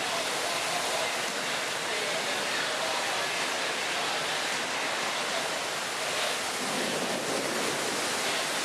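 Severe thunderstorm wind and heavy rain: a steady, even rush of noise with no breaks.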